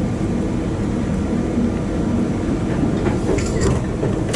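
Diesel train at a station platform: a steady low engine drone with a constant hum, and a few short higher clanks or squeals about three seconds in.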